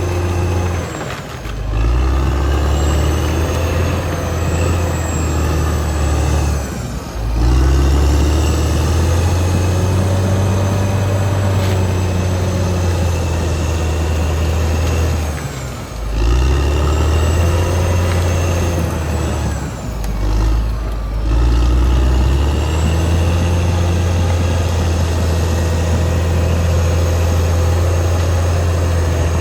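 Caterpillar D6R XL bulldozer's diesel engine running under load. It dips briefly and picks up again four times, with a high whine rising and falling alongside the engine.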